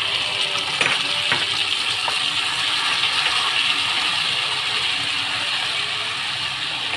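Sauces sizzling steadily in hot oil in a frying pan as they are stirred with a wooden spoon, with two sharp taps of the spoon about a second in.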